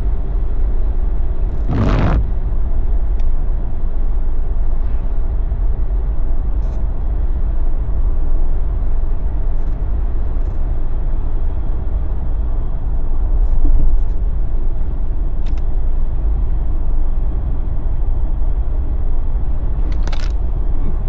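Steady low road and engine rumble of a Jeep driving, heard inside the cabin, with a short loud burst of noise about two seconds in.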